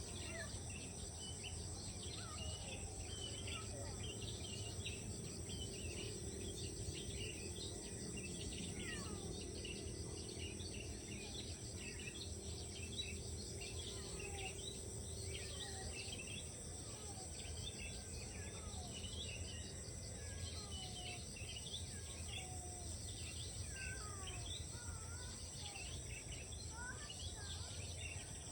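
Outdoor morning chorus: a steady high drone of crickets or other insects under many short bird chirps and whistles, continuing throughout.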